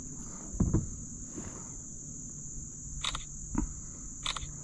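A steady, high-pitched whine holding one pitch, with a few light knocks and clicks scattered through it.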